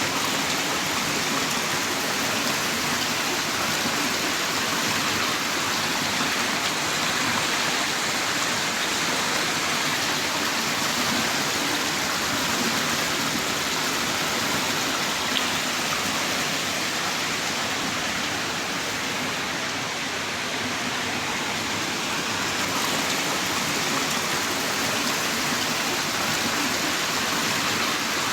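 Heavy rain downpour: a dense, steady hiss of falling rain.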